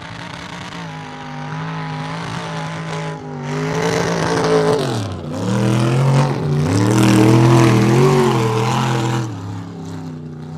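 Mud bog truck's big engine revving hard under load, building up, its pitch dropping sharply twice around the middle and climbing back, loudest in the last few seconds before it falls away near the end.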